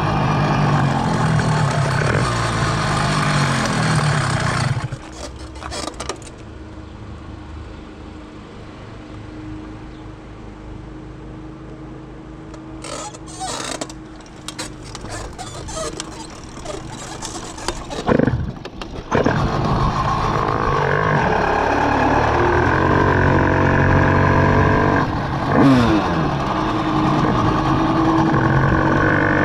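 Minarelli vertical two-stroke single-cylinder engine on a motorized bicycle running hard, dropping to a much quieter low steady hum about five seconds in with a few sharp clicks, then coming back up loud about nineteen seconds in with its pitch rising and falling.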